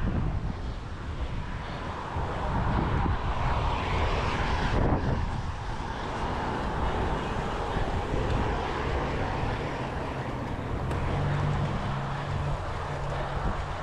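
Steady road and wind noise from a moving bicycle, with motor traffic running alongside. A low engine hum swells in the last few seconds.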